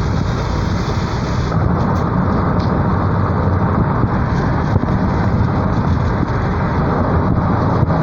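Steady road and wind noise of a moving car, a low rumble with no breaks.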